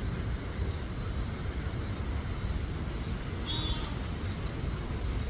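Small birds chirping, with many short high calls scattered throughout and one slightly lower call a little past the middle, over a steady low rumble.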